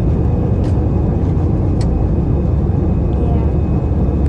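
Airbus airliner's jet engines and the runway rumble, heard as a loud, steady roar from inside the passenger cabin during the takeoff.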